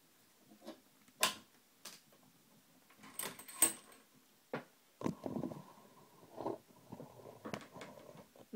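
Small metal clicks and taps from a lock cylinder and picking tools being handled as the lock is taken apart, then a few seconds of scraping and rustling.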